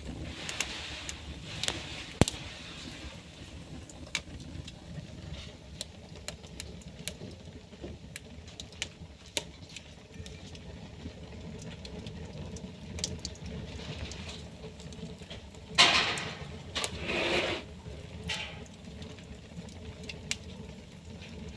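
Wood fire burning in a fireplace, with a steady low rumble and irregular sharp crackles and pops. Two louder hissing bursts come about three-quarters of the way through.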